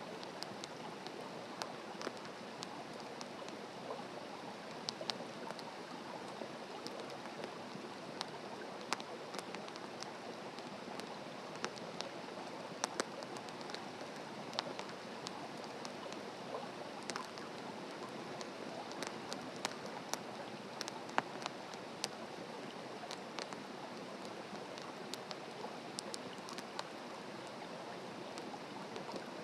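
Wood campfire burning, a steady hiss with frequent irregular crackles and pops.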